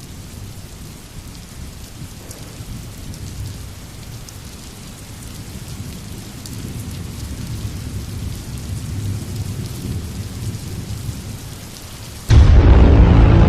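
Steady rain with low rolling thunder that swells gradually. About twelve seconds in, a sudden, much louder deep hit with a held pitched tone comes in.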